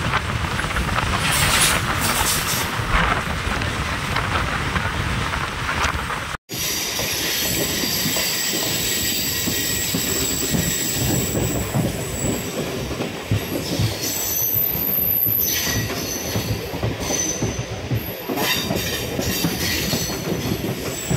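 MEMU electric train running on the rails, with a steady rumble and rattle of the wheels on the track and thin, high squealing tones. The sound drops out briefly about six seconds in, at an edit.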